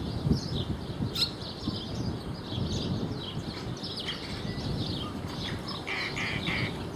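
Small birds chirping: many quick, high twittering notes throughout, with three short, lower, louder notes near the end.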